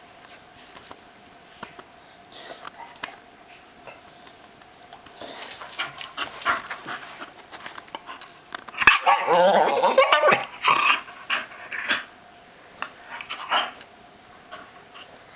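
Staffordshire bull terrier making odd vocal noises: breathy sounds from about five seconds in, then its loudest stretch, a wavering pitched vocalizing of nearly two seconds, followed by a few shorter calls.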